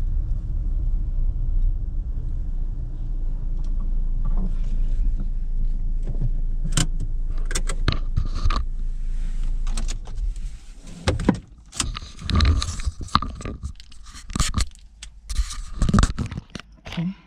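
A steady low rumble for about the first ten seconds, then a run of irregular clicks, rattles and jangling handling noises.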